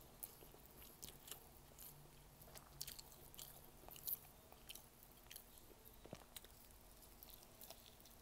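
Faint close-up chewing of squid and rice, with irregular small wet clicks and a few sharper snaps from the mouth and fingers.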